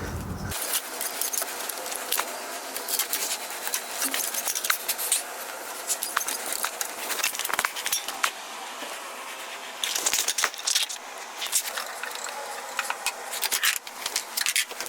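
Dense run of small metallic clicks, rattles and rustles from hands working tools and parts on the car, busier about ten seconds in and again near the end.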